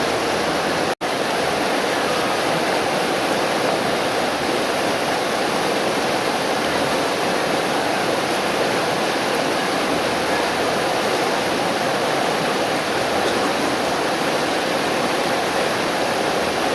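Steady rush of fast-flowing floodwater, cut by a split-second dropout about a second in.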